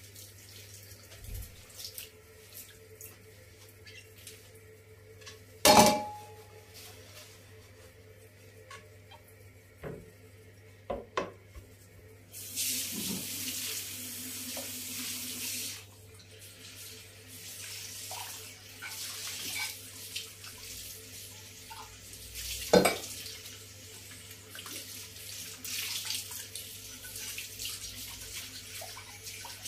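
Kitchen tap running into a sink on and off, with dishes clinking and knocking. There is a sharp clink about six seconds in and another around twenty-three seconds.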